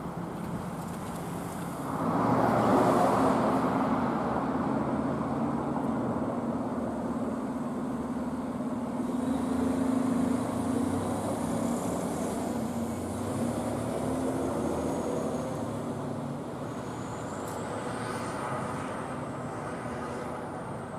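Large road vehicle's engine running steadily, with a loud rush of noise starting about two seconds in that slowly fades.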